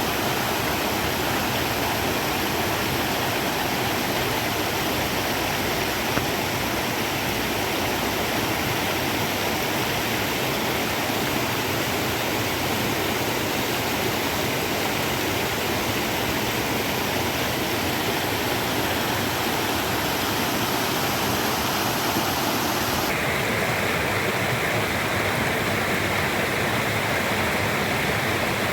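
Steady rushing of running water, like a stream or waterfall, an even full noise with no distinct events. About 23 seconds in the tone changes abruptly, becoming brighter in the middle range and duller at the top.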